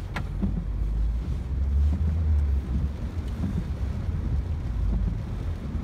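Inside the cabin of a Ford Focus driving through pouring rain: a steady low road rumble under an even wash of rain and tyre spray, with a single click near the start.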